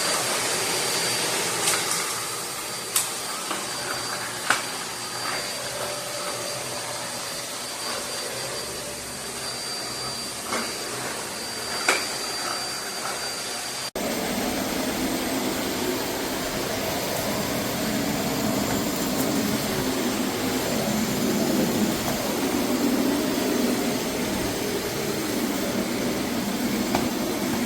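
Eureka WhirlWind bagless canister vacuum cleaner running steadily, with a few sharp clicks in the first half. About halfway through, the sound changes abruptly to a fuller, lower drone.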